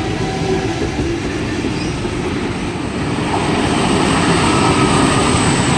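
Eight-car Tangara electric suburban train pulling out of the platform, its wheels rumbling on the rails with a faint steady high-pitched whine, growing a little louder over the last few seconds.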